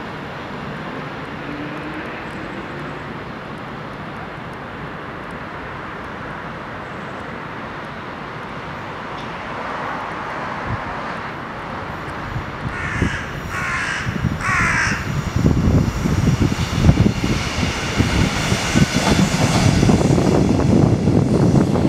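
A crow caws three times about halfway through, over a steady low rumble. After that a passenger train draws in: a rising rumble with quick, uneven wheel knocks over the rail joints, which becomes the loudest sound near the end.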